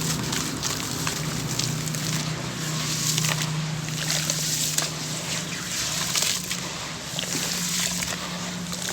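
Grainy sand-cement chunks crumbling in water: a dense, continuous crackle of small clicks with sloshing, over a low steady hum.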